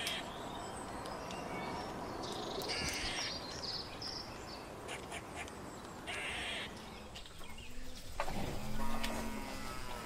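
Outdoor ambience with three short, harsh bird calls, about three seconds apart. Near the end comes a long, low cow moo, the loudest sound.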